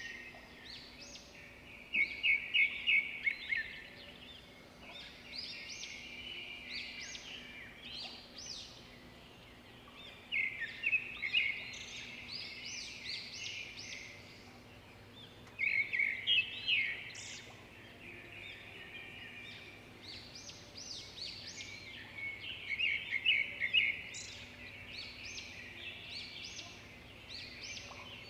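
Birds chirping and trilling, with a louder burst of song every seven or eight seconds and softer chirps in between.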